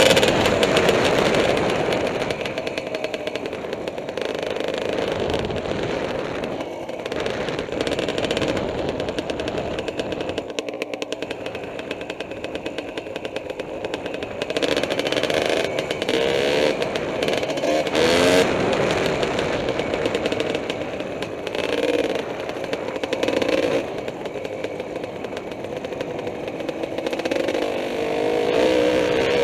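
Kawasaki KDX 220R two-stroke single-cylinder dirt bike engine running under load, its pitch rising and falling repeatedly as the throttle is opened and closed.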